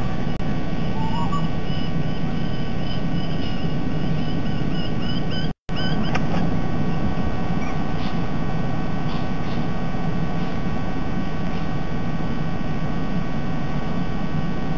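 Steady low rumbling background noise, with a small bird chirping repeatedly over the first five seconds and a faint steady whine underneath. The sound cuts out completely for a moment about five and a half seconds in.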